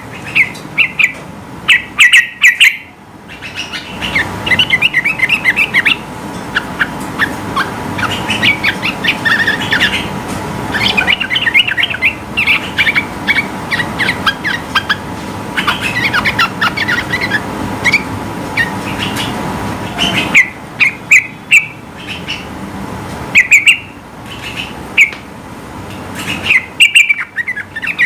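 Yellow-vented bulbul (trucukan) singing loud, bubbling phrases of rapid notes in short bursts. Through the middle stretch the notes come thick and overlapping over a background hiss, before breaking again into separate bursts near the end.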